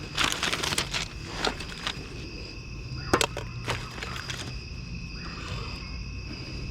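Rummaging through a garbage bag: rustling and small clicks and clatters of handled items, busiest in the first second and again around three seconds in, over a steady high whine.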